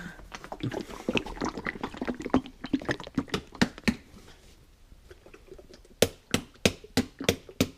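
A bulldog lapping and eating: quick, wet mouth clicks, irregular at first, then settling into an even rhythm of about three a second near the end.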